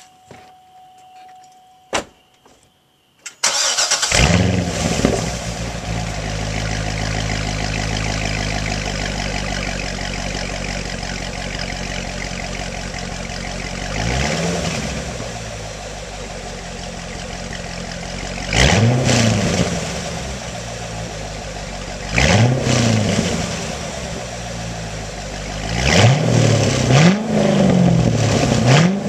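2009 Corvette Z51's 6.2-litre LS3 V8 starting about three seconds in through its stock NPP exhaust with the butterfly valves held open. It flares up and settles to a steady idle, then is revved in short blips, several in quick succession near the end.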